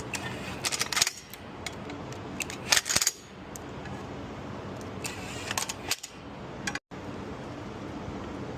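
Short bursts of sharp metallic clicking and clattering from metal engine parts being handled, four clusters a second or two apart, the loudest about three seconds in, over a steady low hum.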